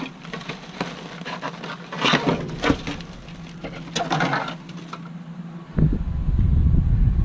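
Rummaging through items in a dumpster: irregular clicks, clatters and rustles of things being moved and handled. About six seconds in a steady low rumble starts suddenly and becomes the loudest sound.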